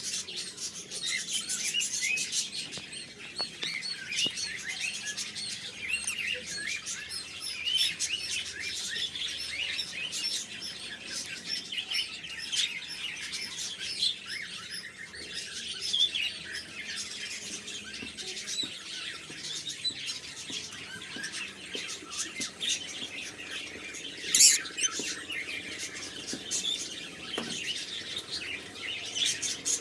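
Lovebirds, small parrots, chirping and chattering continuously in many quick high-pitched chirps, with one louder, sharp call late on.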